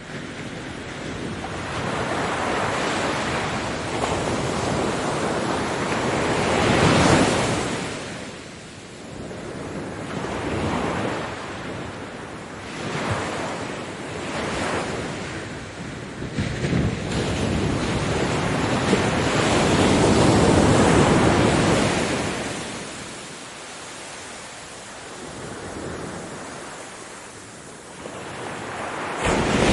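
Ocean waves breaking on a beach, the surf swelling and fading in several long surges, the loudest about a quarter of the way in and again past the middle.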